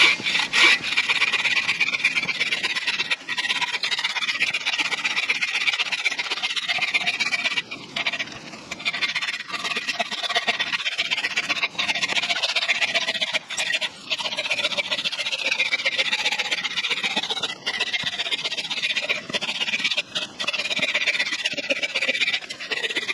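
Hand saw cutting through firewood in a steady run of rasping strokes, with a few short pauses.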